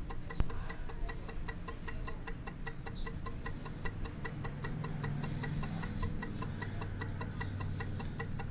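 Clock ticking with quick, even ticks, about five a second, over a faint low hum in the second half.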